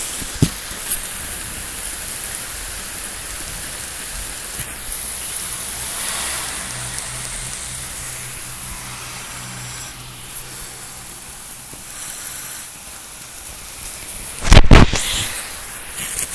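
Steady rain falling during a thunderstorm, with a sudden, very loud crack of close thunder about fourteen and a half seconds in.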